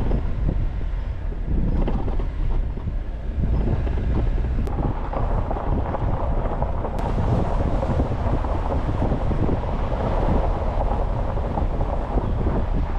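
Jeep Wrangler driving along a rough forest dirt road: a steady rumble of tyres and suspension over the uneven surface, with wind buffeting the microphone. The noise grows fuller about four and a half seconds in.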